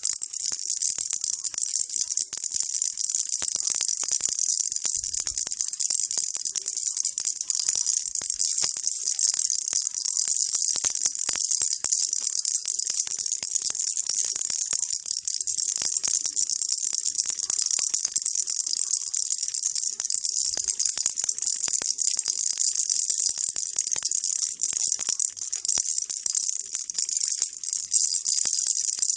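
Baby rattle shaken continuously for white noise: a dense, steady, high-pitched shaking made of many fine clicks, without pauses.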